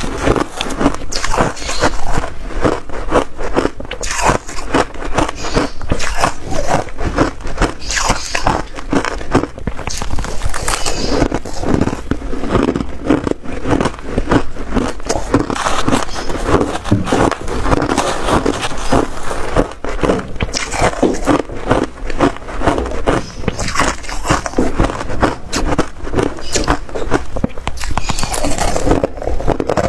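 Ice being bitten and chewed: a dense, rapid run of sharp crunches with no real pause.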